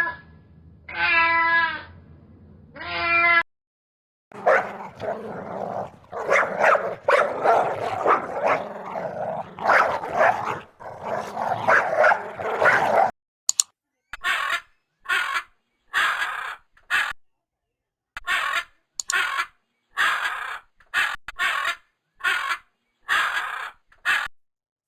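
A cat meowing a few times, then dogs whining and yipping, then a dog barking in a steady run of short barks about once a second.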